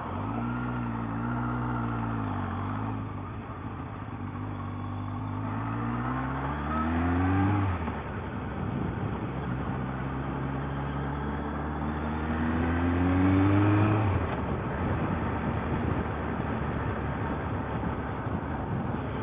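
Suzuki Bandit 1200S inline-four motorcycle engine accelerating under way. Its pitch climbs and drops suddenly twice, about seven and a half and about fourteen seconds in, as it shifts up a gear. Wind noise on the microphone runs underneath.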